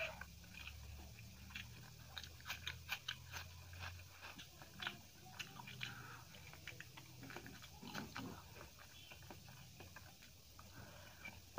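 A person chewing mouthfuls of rice and potato curry eaten by hand, with many short, sharp crunches and mouth clicks from crisp crumbled bits mixed into the rice.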